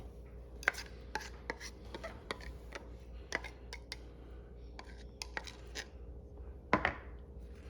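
A utensil spreading sauce onto a burger bun: a string of soft scrapes and light taps, with one sharper click near the end.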